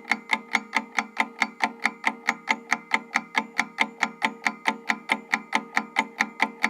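Countdown-timer ticking sound effect: evenly spaced sharp ticks, about four to five a second, over a faint steady hum, marking the time given to answer the question.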